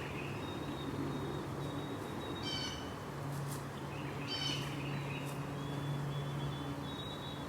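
A bird calling twice, short calls about two seconds apart, over a steady low hum.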